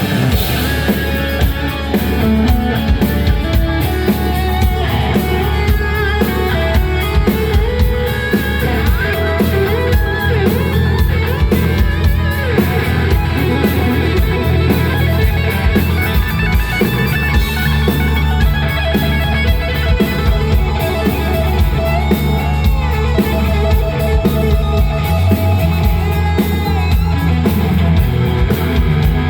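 Rock band playing live, with guitar over a drum kit.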